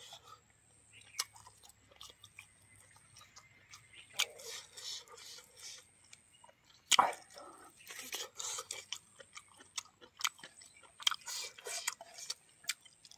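Close-miked chewing and mouth sounds of a person eating rice and buffalo meat curry by hand: irregular wet smacks and small crunches, with one louder bite about seven seconds in.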